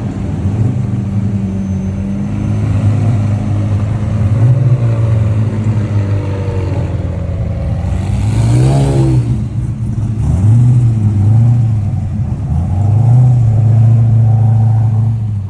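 Car engine revving, its pitch rising and falling several times, with a big rev about halfway through and two quick blips just after.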